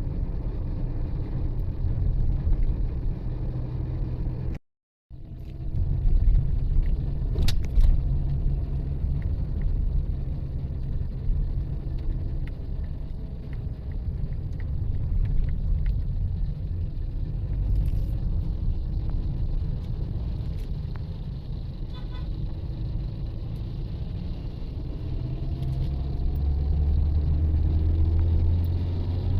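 Low, steady rumble of a road vehicle driving, engine and road noise, with a rising engine note near the end. The sound cuts out completely for about half a second around five seconds in.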